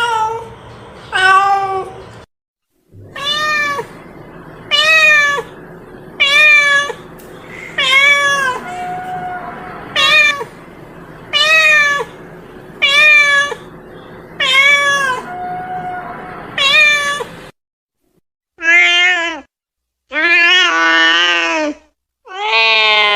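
Domestic cat meowing over and over, about one short meow every second and a half, each rising then falling in pitch. Near the end, after a brief silence, come longer, drawn-out meows.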